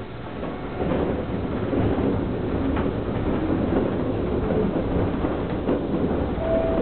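Electric train on the Hokuriku Railroad Ishikawa Line pulling away from a station, heard from the driver's cab. The rumble of its motors and wheels on the rail swells about a second in and then runs on steadily, with a few faint clicks and a brief higher tone near the end.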